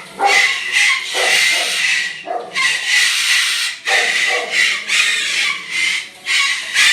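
Moluccan cockatoo giving a run of loud, harsh squawks, about one a second.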